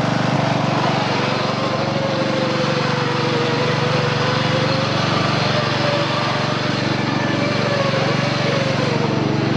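Small engine running steadily, its pitch wavering slightly up and down.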